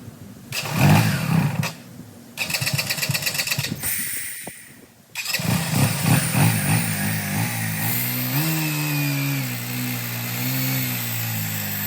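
Motorcycle engine revving in a few short bursts, then running steadily with its pitch rising and falling slightly.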